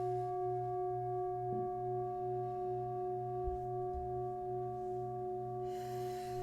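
Singing bowls ringing with several steady, sustained tones, the lowest pulsing in a slow wavering beat. A softly struck bowl adds lower and higher tones about one and a half seconds in, and a soft hiss comes in near the end.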